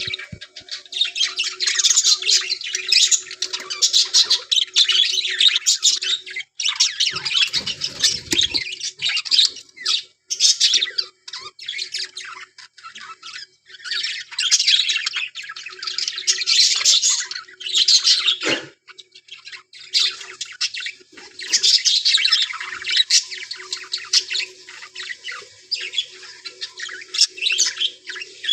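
A colony of budgerigars chattering and warbling almost without pause, with a faint steady low hum underneath. A low rumble comes about eight seconds in.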